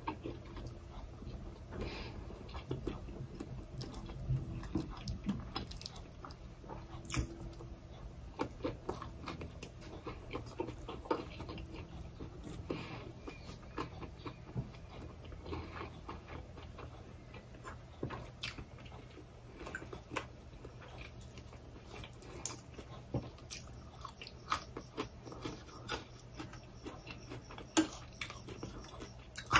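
Close-miked chewing of a person eating: soft irregular mouth clicks and squelches as a mouthful is worked. Near the end a spoon taps against a small bowl.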